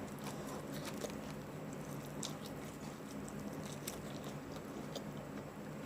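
Chewing fried chicken: soft, wet mouth sounds with scattered small clicks, over a faint steady hum.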